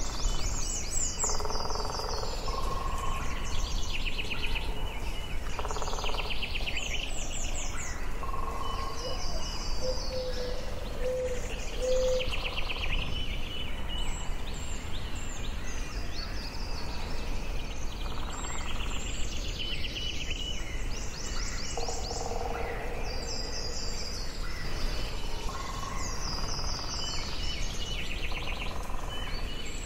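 Forest ambience: several birds singing in turn, with repeated high trilled phrases and some lower whistled notes, over a steady low background noise.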